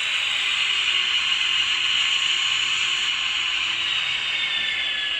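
N gauge DCC sound-fitted model locomotive running on the layout: a steady mechanical whirr of the small motor and wheels on the track, mixed with the sound decoder's engine sound running above idle.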